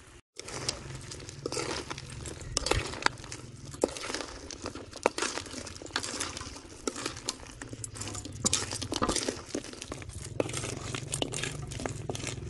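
Food frying in a pan: a dense, irregular crackle of sharp pops over a steady low hum.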